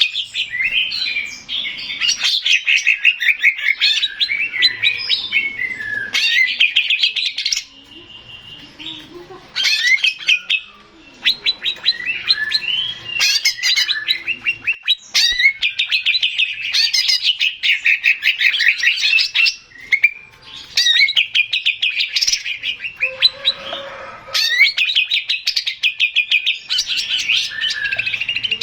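Male greater green leafbird (cucak ijo) singing a loud, fast, chattering song. It runs in phrases of several seconds made of rapid repeated notes and warbles, with a few short pauses.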